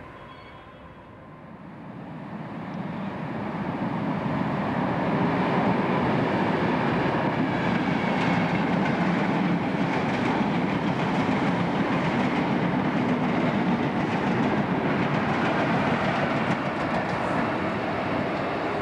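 InterCity express of coaches with a Class 90 electric locomotive running through the station at speed. The sound of wheels on rail builds over the first few seconds into a steady rumble, with wheels clicking over rail joints, and eases a little near the end as the train draws away.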